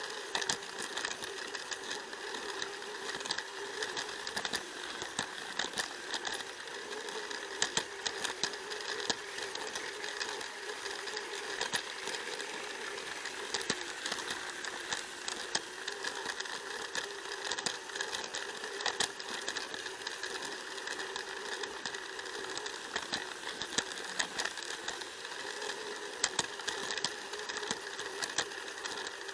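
Plarail toy train's small battery motor and plastic gearbox whirring steadily, with scattered clicks and rattles from the wheels running over plastic track, heard up close from a camera car riding on the train.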